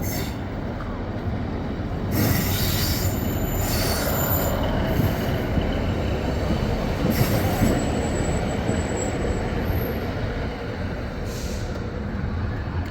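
Diesel passenger train running along the track at the station, with a steady rumble and rail noise. Its wheels give thin, high squeals on the rails a little past the middle.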